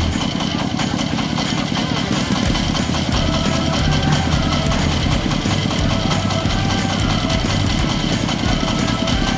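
Diesel engine of a mini self-loading concrete mixer running steadily, with background music over it.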